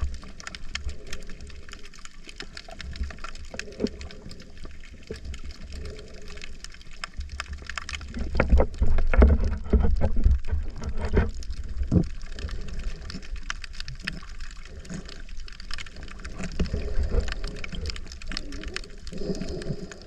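Water sloshing and gurgling around a camera at or under the surface during snorkeling, with small knocks and bubbly splashes throughout. A stretch of louder splashing comes about eight to twelve seconds in.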